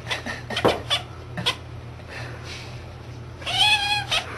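Domestic cat making a quick run of short clicking chirps with its mouth open, then one longer meow-like call that rises and falls, about three and a half seconds in.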